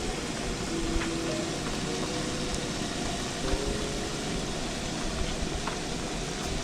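Steady, dense rain noise from a storm, with a few faint notes of background music underneath.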